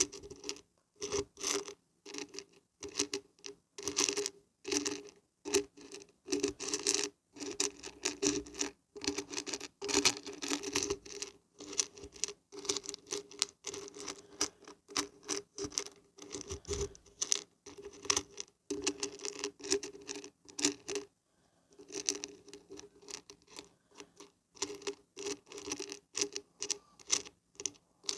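Dried beans and barberries being shaken, rattling in quick repeated bursts with a brief pause a little past the middle.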